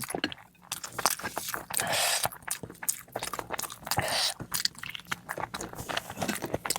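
Close-miked eating: a person chewing and smacking their lips, with many short wet clicks. Two longer wet sounds come about two and four seconds in.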